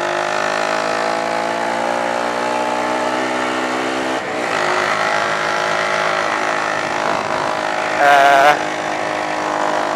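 A vehicle engine running, its pitch rising steadily for about four seconds, then a break as it shifts gear, after which it runs on steadily. About eight seconds in, a brief louder wavering tone.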